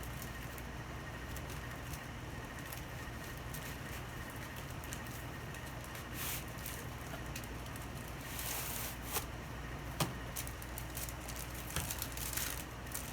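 Paper wrapping rustling and light clicks and knocks as packed fan parts are handled, over a steady low hum.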